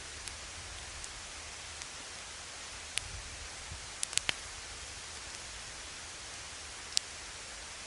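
Campfire burning with a steady hiss and a few sharp crackling pops, a cluster of them about four seconds in and one more near the end.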